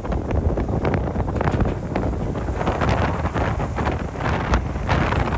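Wind buffeting the microphone on the deck of a car ferry under way: a loud, uneven rushing with many irregular gusts, over the ship's running noise.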